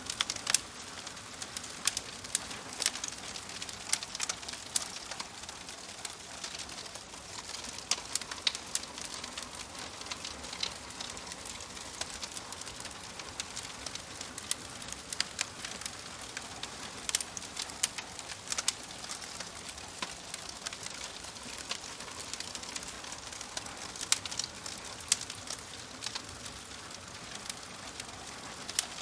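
Wood fire crackling in a fireplace: a steady soft hiss with irregular sharp pops and snaps, several a second.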